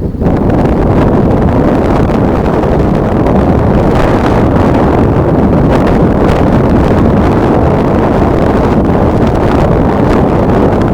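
Strong wind buffeting the camera's microphone: a loud, steady rumbling noise.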